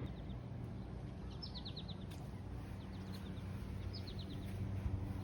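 A songbird calling outdoors: a quick series of short, falling high notes, heard three times, over a steady low hum.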